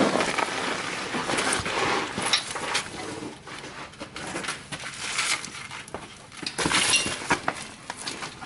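John Deere 430 tractor running with its loader PTO drive detached, making an irregular metallic clinking and rattling noise that comes and goes in loudness.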